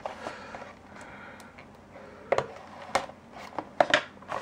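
Packaging being handled: a soft rustle, then a handful of sharp separate clicks and taps in the second half.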